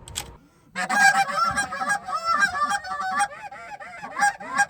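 Canada goose honks and clucks, many rapid overlapping calls, starting abruptly about three-quarters of a second in and continuing loudly, typical of geese being called in over a decoy spread.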